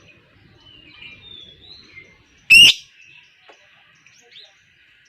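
Lovebird calling: soft twittering warbles, then a single loud, harsh screech about two and a half seconds in.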